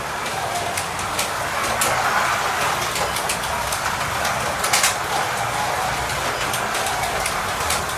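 Carrera Digital slot cars racing laps: a steady whirring of the small electric motors and tyres on the plastic track, with scattered sharp clicks throughout.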